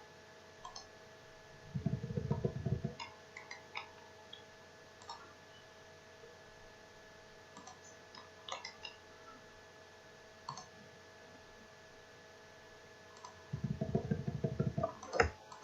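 Computer mouse clicking, sparse single clicks at irregular intervals over a faint steady hum. Twice, about two seconds in and near the end, a denser low rattle lasting about a second.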